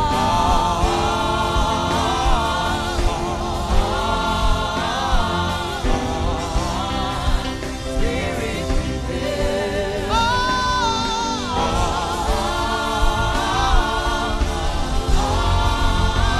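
A wordless gospel melody hummed and sung in gliding, wavering phrases of a second or two each, over a steady low instrumental backing.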